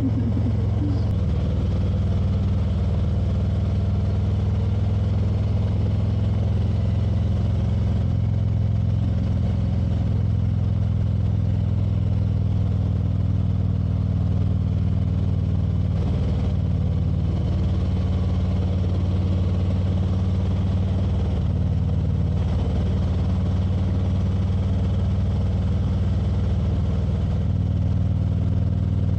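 Motorcycle engine running while riding at a steady pace: a constant low drone that holds the same level throughout.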